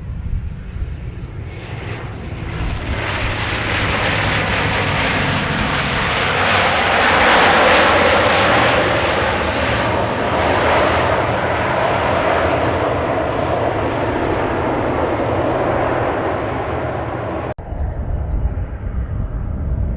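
An airliner's engines rushing past, growing louder over several seconds and then slowly fading. The sound cuts off suddenly near the end, leaving low wind rumble on the microphone.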